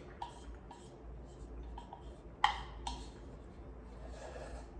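Chopsticks clicking and scraping against a deep bowl while digging for the last noodles: a few light clinks with a sharper knock about two and a half seconds in, the bowl ringing briefly after some of them.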